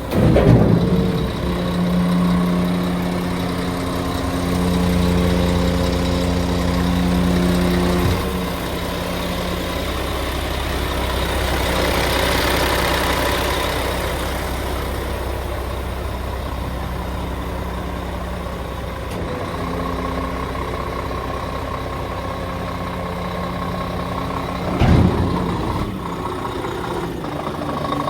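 Scania R490 truck's inline-six diesel engine running, its note higher and louder for the first eight seconds or so before settling to a steady idle. A brief louder burst comes right at the start and another near the end.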